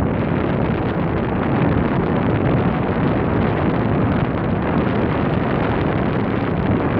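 Steady wind noise buffeting the microphone, the rush of air from riding a bicycle.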